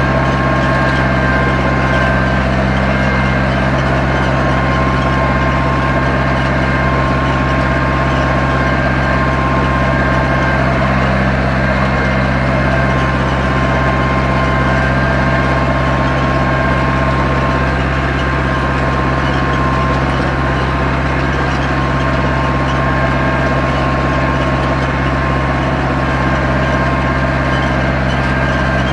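Zetor 7245 tractor's four-cylinder diesel engine running steadily under load while pulling a plough, with a faint whine that comes and goes.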